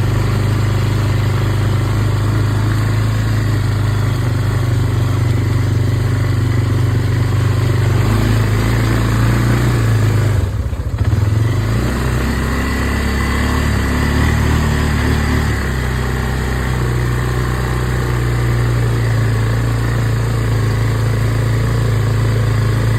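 Small off-road vehicle's engine running steadily while riding, its note dipping briefly and recovering about ten seconds in.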